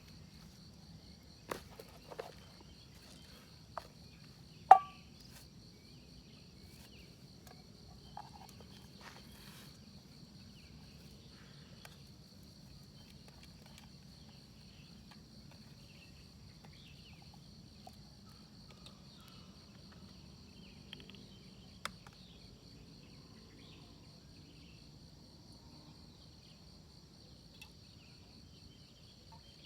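Crickets chirring steadily at a high pitch over a low, steady rumble, with a few scattered knocks and clicks. The loudest is a sharp knock about five seconds in.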